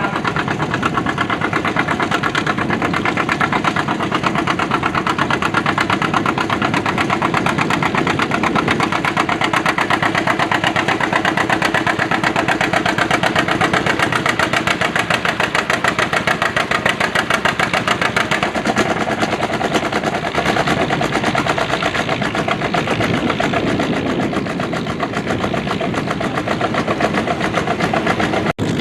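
Antique pulling tractor's engine running hard and steady, a fast, even stream of exhaust beats that does not let up, with a momentary break just before the end.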